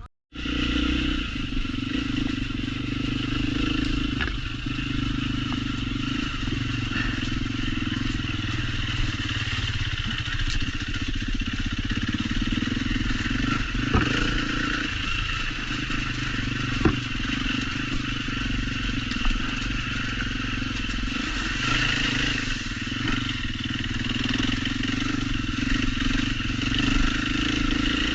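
Off-road trail motorcycle engine running at steady, fairly low revs as it is ridden, with a couple of sharp knocks about halfway through.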